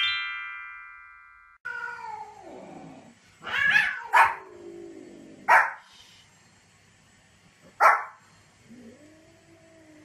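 A short transition chime rings out at the start. Then a Pomeranian barks sharply four times, with long, drawn-out cat meows between the barks.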